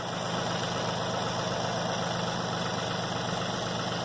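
Tractor engine running steadily at idle, a low even hum.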